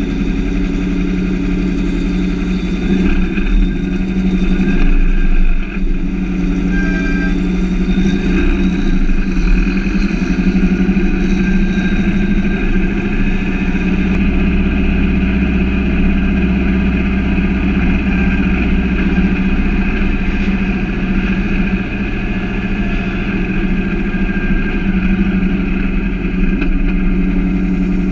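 Turbocharged 2332cc VW Beetle air-cooled flat-four running steadily at low revs while the car rolls slowly.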